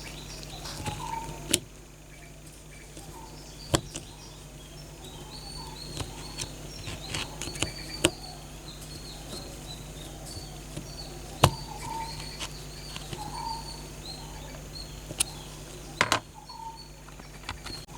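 Sharp clicks and taps from hand work on a small metal toy car, a few seconds apart at irregular gaps, with small birds chirping in the background.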